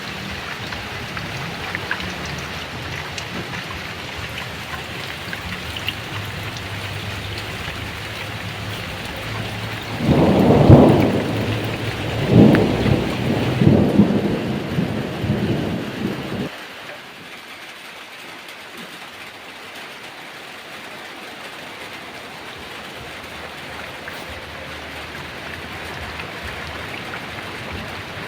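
Heavy rain falling steadily, with a thunderclap about ten seconds in that rumbles in several waves for some six seconds and then stops abruptly, leaving the rain alone.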